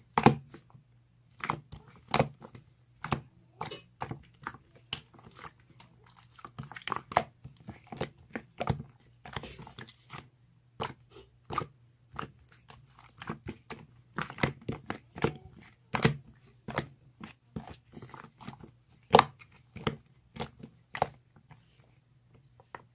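Slime being squished and pressed by hand, giving irregular crisp clicks and pops, about one or two a second, with softer crunchy crackling between.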